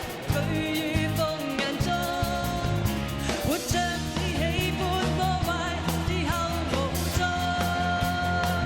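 A singer performing an up-tempo Cantopop song live with a full band backing, drums keeping a steady beat under the held, wavering vocal line.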